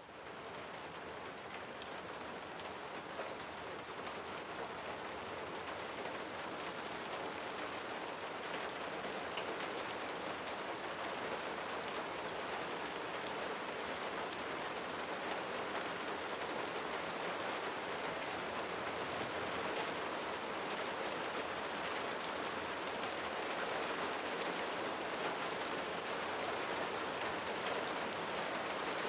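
Steady rain falling on leaves, an even hiss of many drops. It fades in from silence at the start and grows a little louder over the first several seconds, then holds steady.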